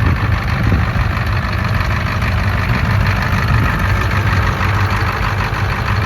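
Engine of a 1940s vintage car idling steadily just after being started, a continuous low rumble.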